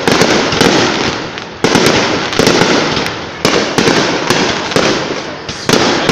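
Aerial fireworks shells bursting in rapid succession over a dense crackle of smaller reports, with three big bangs roughly every two seconds, recorded on a phone's microphone.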